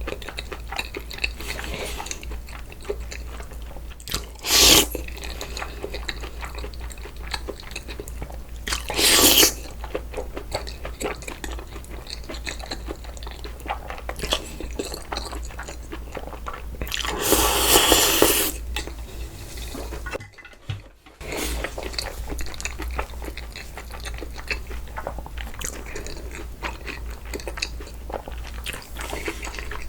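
Close-miked mouth sounds of someone eating cold noodles (naengmyeon): steady chewing and crunching. Three louder noisy moments stand out, the longest about two-thirds of the way through.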